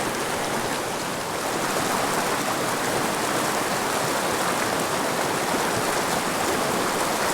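Small mountain river's water rushing steadily.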